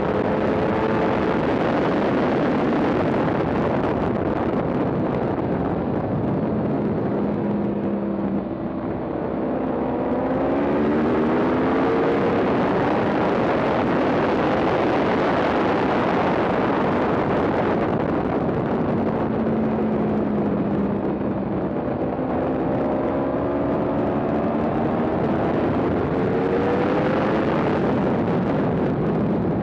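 Yamaha R1 inline-four sportbike engine under hard riding, heard onboard through heavy wind rush at track speed. The engine note climbs in pitch as the bike accelerates, about ten seconds in and again in the last third, with a brief easing about eight seconds in.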